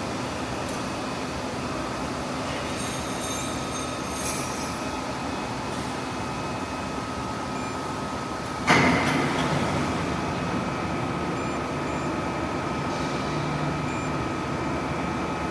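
Hydraulic CNC press brake running with a steady machine hum. About nine seconds in there is a sudden loud bang that rings briefly and dies away.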